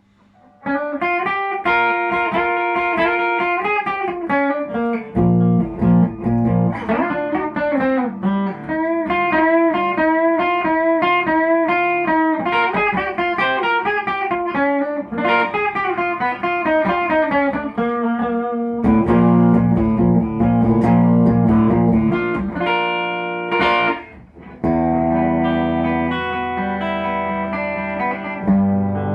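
Yamaha Revstar RS 320 electric guitar with ceramic humbuckers being played, starting about half a second in: runs of single notes mixed with held chords.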